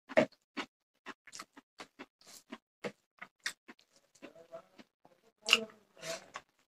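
Close-up eating sounds of a person eating rice and curry by hand: chewing and wet mouth clicks in a quick, irregular run. There is a louder smack just after the start and two more about five and a half and six seconds in.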